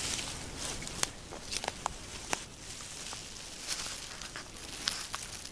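Footsteps with rustling, and a few sharp clicks scattered through, over a steady hiss.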